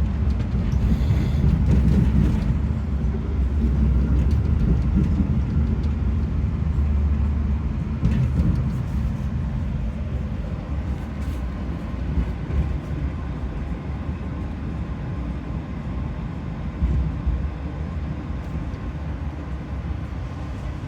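Passenger train running on the rails: a steady low rumble and rolling noise from the moving coach, growing gradually quieter over the stretch.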